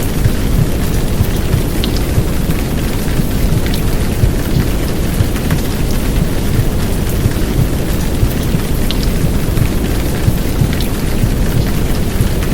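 Heavy downpour of rain layered with a low, muffled womb-sound rumble of heartbeat and white noise, a steady soundscape made to calm babies. A dense hiss sits over a strong low rumble, with scattered faint drop ticks.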